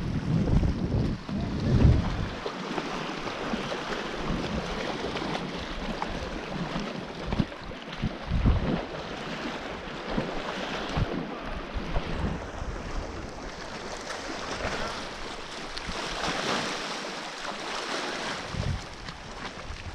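Water washing against a rock ledge, with wind buffeting the microphone for the first couple of seconds and a few brief splashes or knocks about eight seconds in.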